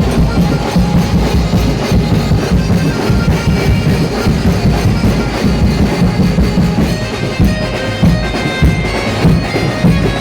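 Loud band music with drums beating steadily and a reed or brass wind instrument playing held notes over them.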